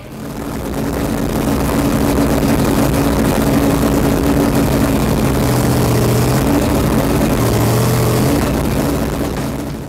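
Supercharged Hemi V8 engine of a drag street car running at idle with a steady low note and a strong hiss; the note dips and recovers about six seconds in as the Lenco transmission levers are worked.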